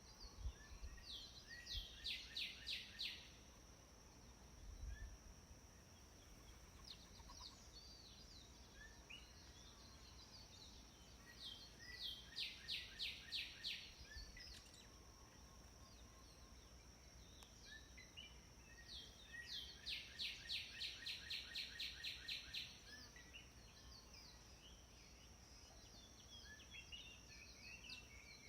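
Wild birds singing: one bird repeats a rapid trill of evenly spaced high notes three times, with scattered chirps from others between, over a faint steady high-pitched tone.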